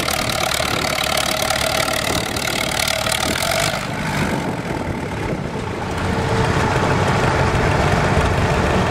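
A tractor-pull engine running loud and steady. About four seconds in the high, hissing part of the sound drops away and a lower engine sound carries on.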